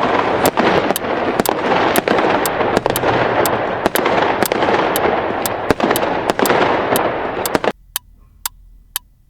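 Fireworks going off in a dense, continuous crackling barrage that cuts off suddenly near the end, with a steady tick about twice a second behind it.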